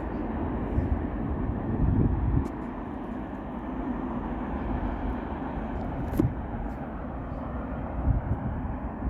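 Train rolling past: a steady low rumble with a few short knocks along the way.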